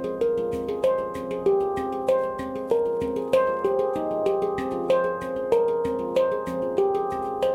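F minor handpan played by hand: a steady rhythmic pattern of struck, ringing steel notes with overlapping sustain, several notes a second.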